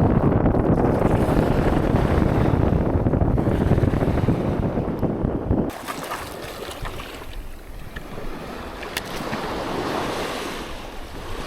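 Wind buffeting the microphone over the sound of surf. About halfway through the wind noise cuts off suddenly, leaving the wash of waves on the beach and a few faint clicks.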